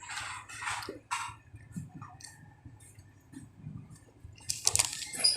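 Eating and food-handling noises close to the microphone: a scatter of short crackly clicks and rustles, busiest at the start and again near the end.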